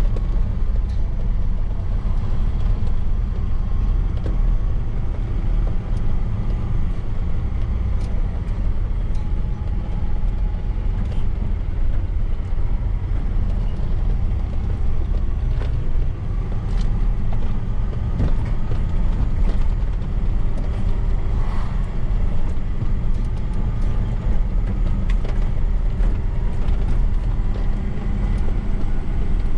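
Truck engine and road noise while driving: a steady low rumble, the engine note drifting slightly up and down, with a few faint clicks and knocks.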